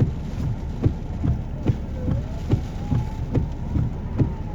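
Regular thumping, about two to three beats a second, with a faint tone that rises and then falls in pitch from about halfway through.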